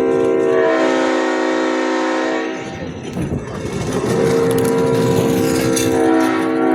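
Multi-chime locomotive air horn sounding a chord of several steady notes. It cuts off about two and a half seconds in, and a second long blast starts about four seconds in.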